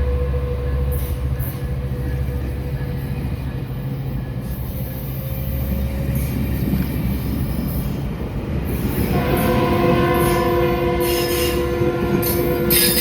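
Passenger train with a low, steady diesel engine drone. About nine seconds in, a held chord of several steady tones sets in, with sharp metallic clicks from the wheels and rails over it.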